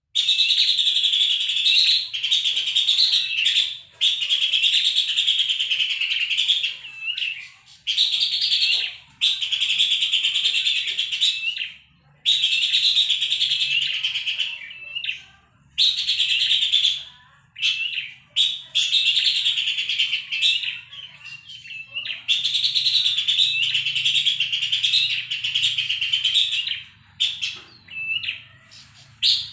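Horsfield's babbler (pelanduk semak) singing in long, loud bouts of rapid, dense chattering calls, each a few seconds long, broken by short pauses.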